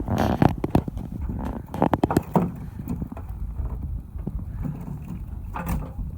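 Steady low rumble of wind and water around a fishing boat, with scattered knocks and clatter: a cluster at the start, more around two seconds in, and one near the end.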